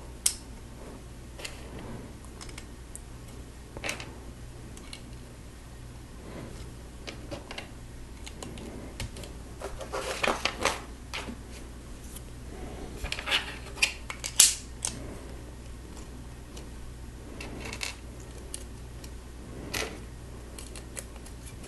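Plastic Lego bricks being handled and pressed together: scattered sharp clicks and short clatters, busiest about ten seconds in and again around thirteen to fourteen seconds, over a faint steady hum.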